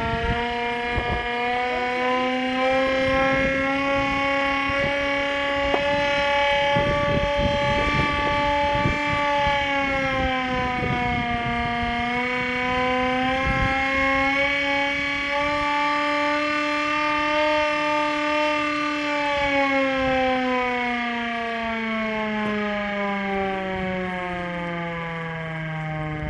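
Air-raid siren wailing: one continuous rising-and-falling tone that dips about ten seconds in, climbs again, then winds down over the last several seconds.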